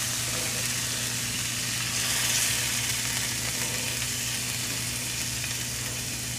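Butter and uncooked white rice sizzling in a hot pan: a steady frying hiss that swells slightly about two seconds in, with a low steady hum underneath.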